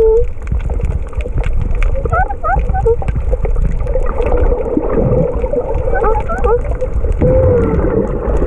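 Underwater sound of unknown origin: a steady low rumble with crackling clicks. Over it come several groups of short rising and warbling chirps, about a second in, twice near the middle, and a longer wavering tone near the end.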